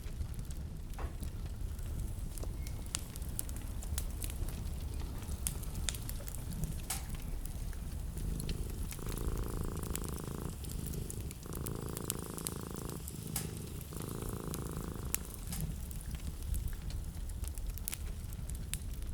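Wood fire crackling in a fireplace over a steady low rumble, with frequent sharp pops. A little past the middle a low rhythmic purr comes in three stretches of about a second and a half each, with short gaps between.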